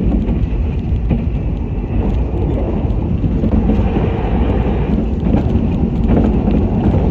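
Limited express Yakumo train running at speed, heard from inside the passenger car: a steady low rumble of the wheels on the track.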